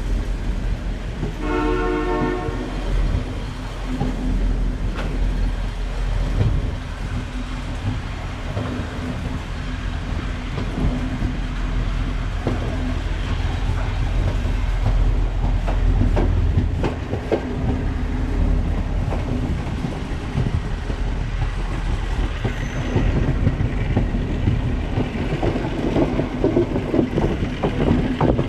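Express train running on the line, the wheels clacking over rail joints under a steady rumble. A diesel locomotive's horn sounds once for about a second and a half near the start.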